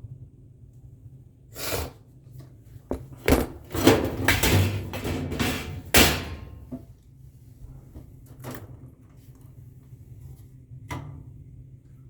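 A string of knocks and rattles from hard objects being handled, heaviest between about three and six seconds in, with a low steady hum underneath.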